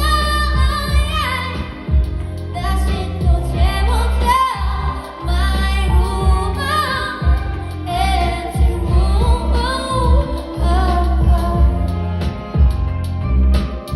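A singer performing a pop ballad live, with held, wavering notes over a band with steady bass and drum beats.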